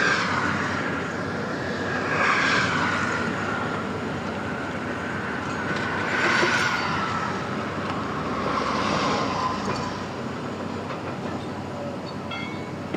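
Road traffic passing close by, vehicles going by one after another, each swelling up and fading with a falling tyre-and-engine hum; four pass-bys stand out.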